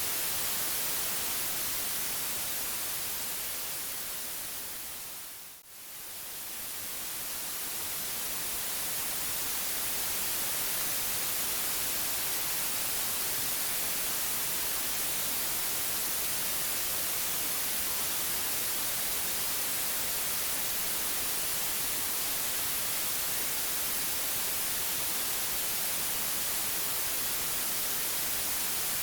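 Steady white-noise hiss, strongest in the high frequencies. About five seconds in it briefly fades down, then swells back up over a few seconds.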